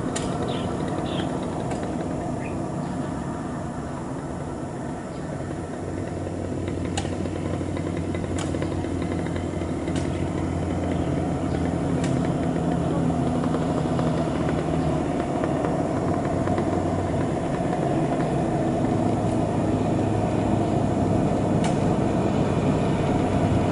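Heavy truck's diesel engine running, a steady low hum that shifts in pitch a couple of times and grows gradually louder.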